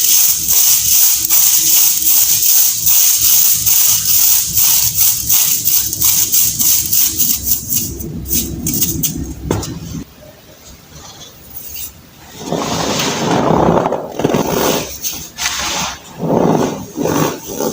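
Compressed baking soda being crushed and crumbled by hand: rapid, crisp, gritty crackling at about four crunches a second. After a short softer lull it turns to slower, fuller, squeaky crunches.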